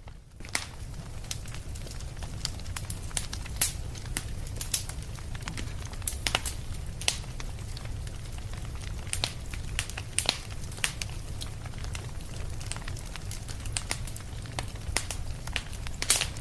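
Wood fire crackling in a fireplace: sharp snaps and pops at irregular intervals over a steady low rumble.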